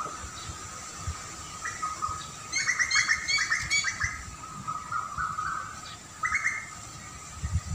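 A songbird singing a quick run of bright chirps about two seconds in, then shorter phrases near the middle and once more a little later, over a steady high-pitched background drone.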